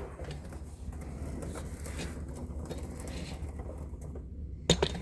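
Camera tripod being set up and adjusted: faint handling rustles and light knocks over a steady low hum, with one sharp click near the end.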